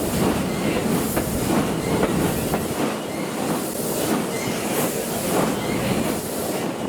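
Steam-hauled passenger train running slowly up a grade, heard from inside a coach: a steady rumble of wheels on the track with repeated short clicks and knocks.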